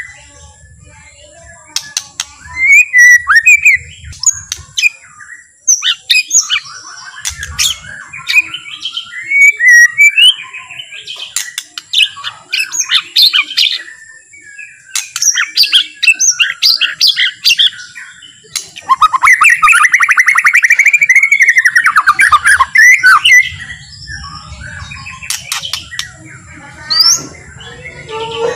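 White-rumped shama singing in separate phrases of whistled and chattering notes with short pauses between them, and a longer, loud, rapid rattling phrase about two-thirds of the way through.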